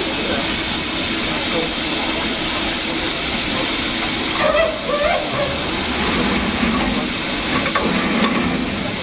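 Steam locomotive venting steam: a loud, steady hiss, with faint voices briefly underneath about halfway through.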